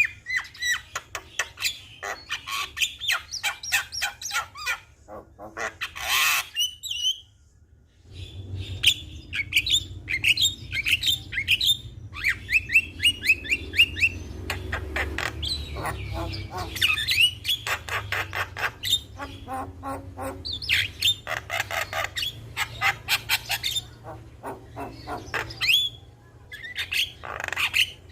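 Javan myna singing a fast, varied song of rapid clicks, chatter and whistled notes mixed with harsh squawks, breaking off briefly about seven seconds in. A low steady hum lies under the song after the pause.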